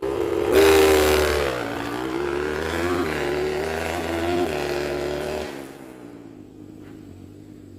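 Trail motorcycle engine revving, its pitch rising and falling, loudest about a second in, then dropping sharply to a much quieter level about five and a half seconds in.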